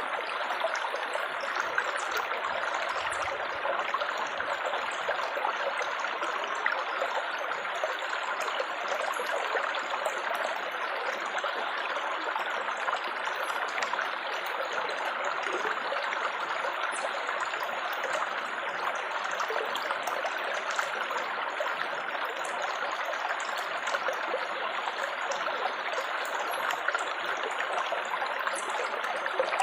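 Water trickling and splashing steadily, like a small babbling stream, with faint tiny droplet ticks on top.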